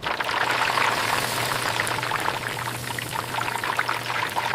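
Chicken frying in hot oil: a steady sizzle full of quick crackling pops, starting suddenly, over a low steady hum.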